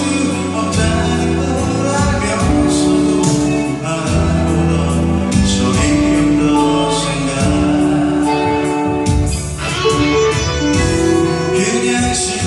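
A band playing a pop song with guitar and a steady drum beat while a man sings.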